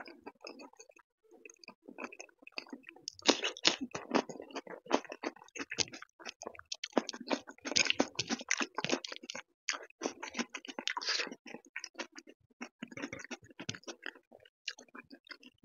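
Close-miked chewing of a mouthful of dal-soaked rice, crispy fried potato and raw cucumber: rapid, irregular wet smacks and crunchy clicks, busiest from about three to eleven seconds in.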